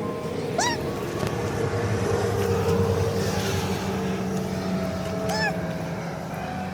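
Kitten mewing twice, short rising-then-falling calls about half a second in and again near five and a half seconds, over a steady loud engine-like drone.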